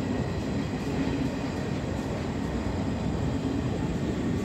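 Passenger coaches of an arriving express train rolling past the platform: a steady rumble of wheels on rails.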